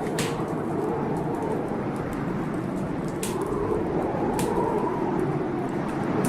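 Heavy blizzard wind blowing steadily, its pitch slowly rising and falling with the gusts, over a wood fire crackling with scattered sharp pops, two louder ones about three and four and a half seconds in.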